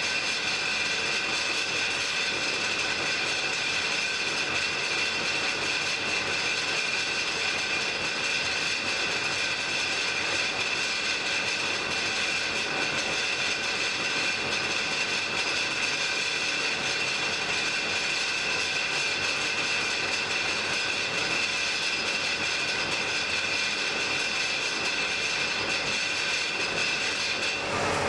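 Blacksmith's forge fire burning with a steady rushing hiss and a constant high whine, with no hammer or anvil strikes.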